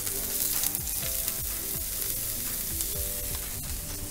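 Diced onions and seared pork tenderloin sizzling steadily in hot olive oil in a stainless steel pan, just after the onions have gone in.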